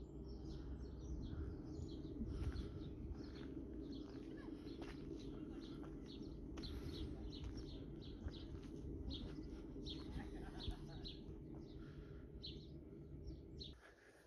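Small birds chirping again and again over a steady low hum; the hum stops shortly before the end.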